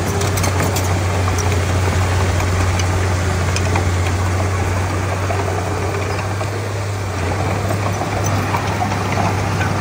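Komatsu D31P bulldozer's diesel engine running steadily with a deep, even hum, with scattered light clicks over it.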